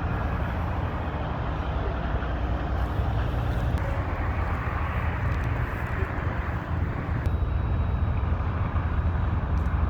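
Steady low rumble of motor vehicles, with an even hiss over it and no distinct events.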